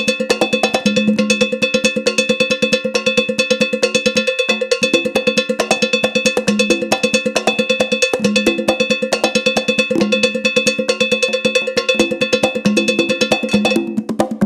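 Ritual candomblé percussion: a metal bell struck in a fast, even rhythm, ringing over deeper drum strokes. The bell's ringing drops out near the end.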